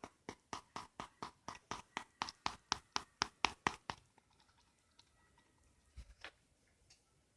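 A quick, even series of sharp clicking taps, about five a second for roughly four seconds and growing louder, then a few scattered ticks.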